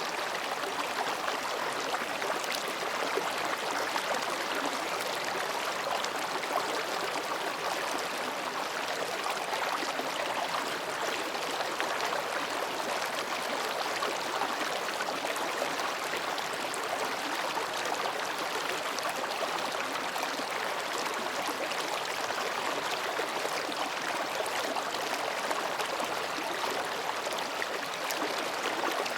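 Mountain stream babbling over and between rocks: a steady, even rush of water with small splashes scattered through it.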